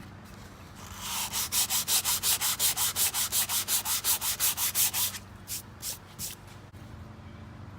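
Sandpaper rubbed rapidly back and forth over rosewood, about five or six scratchy strokes a second for roughly four seconds, then two slower strokes before it stops.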